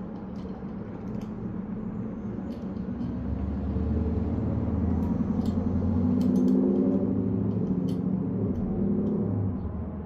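A motor vehicle's engine rumbles, swelling from about three seconds in and dropping away near the end, as if passing by. Light scattered clicks sound over it.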